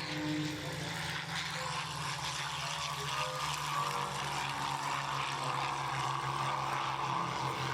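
Propeller aircraft's piston engine droning steadily, growing slightly fuller in the second half.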